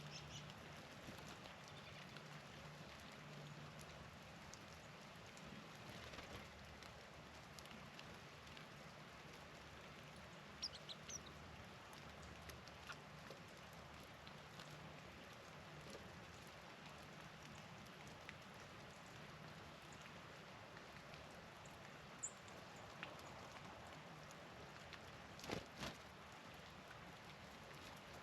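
Quiet outdoor ambience with a steady low hum and a faint hiss, broken by a few short, high bird chips about ten and twenty-two seconds in and a few sharp taps near the end.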